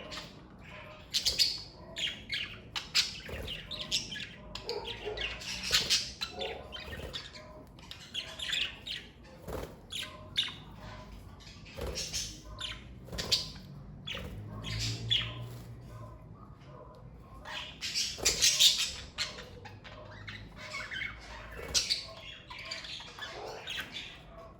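Pet budgerigars chirping and squawking in many short, overlapping calls, with louder clusters now and then.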